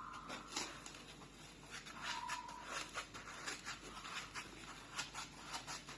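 Tiny painted quail eggs being handled, giving light scattered clicks and taps as they knock against each other and their packaging. A brief faint high tone sounds about two seconds in.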